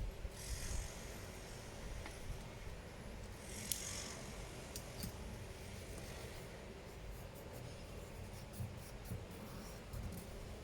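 Faint rubbing and scraping with a few light clicks over a low steady hum.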